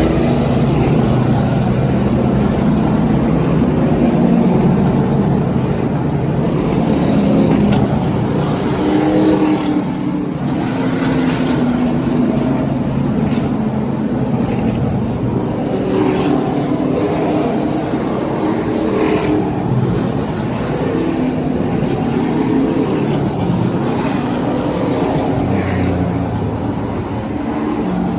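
NASCAR Pinty's Series stock cars' V8 engines running at low pace speed under a yellow flag, several engines at once, their pitch rising and falling as the cars go by.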